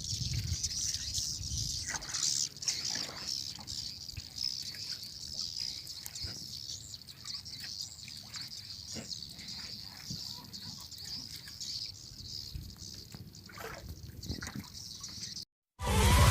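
A flock of swiftlets twittering overhead in a dense, continuous high chatter, over water sloshing and lapping against a small boat. Near the end the sound cuts off abruptly and loud electronic music starts.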